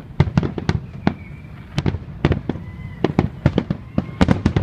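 Aerial fireworks bursting in quick succession: a dense run of booms and sharp cracks, about four or five a second.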